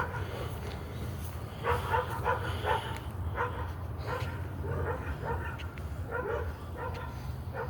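Dogs barking repeatedly in short runs, over a steady low hum.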